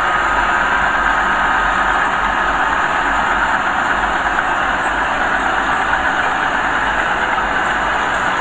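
Diesel engine of a small bulldozer or dump truck running steadily under work.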